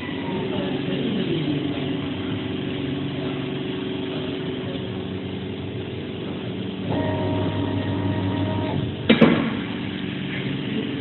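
A CNC flatbed cutting plotter running, with a steady hum and motor whines that slide down in pitch as the head moves. About seven seconds in, a second motor tone starts and runs for nearly two seconds, and just after it a single sharp knock.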